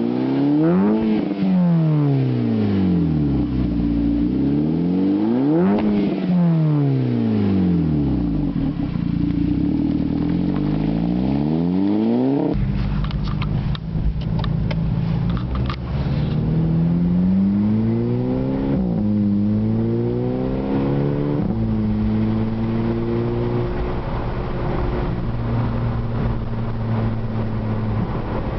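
Volkswagen Mk5 GTI's turbocharged 2.0-litre four-cylinder breathing through a 3-inch downpipe and Autotech cat-back exhaust, revved up and let fall back twice. After an abrupt change about halfway, the engine pitch climbs, drops sharply twice, then holds steady.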